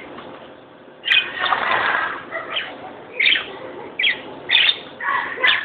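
Small birds giving a string of short, sharp chirps, about half a dozen, with a burst of wing flapping about a second in.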